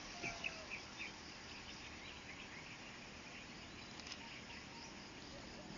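Faint outdoor ambience with small animals chirping: a run of short, high chirps in the first second and a half, then scattered fainter ones over a steady low hiss.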